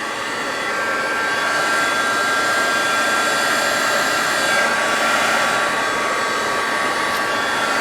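Electric heat gun blowing steadily: a constant fan rush with a faint whine, used to melt craft material into rugged rock shapes.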